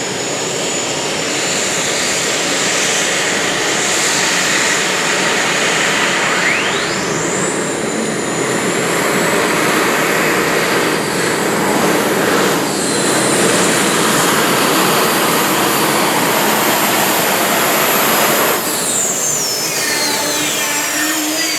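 Competition pulling tractor running at full power down the track, its turbocharger whistle rising sharply to a high scream about six seconds in, holding, then falling away near the end as the run ends.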